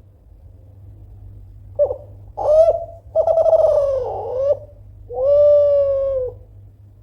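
Kelantan-strain spotted dove cooing one phrase: a short opening note, two coos, then a long held final coo.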